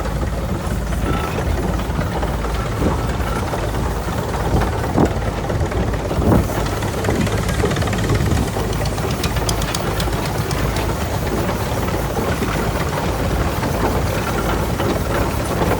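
Tractor engine running steadily, with a couple of sharp knocks about five and six seconds in.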